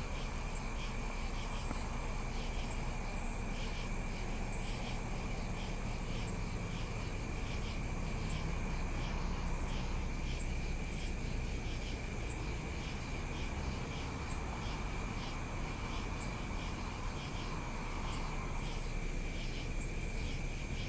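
Insects trilling steadily, a continuous high note with faint regular ticks, over a low steady rumble.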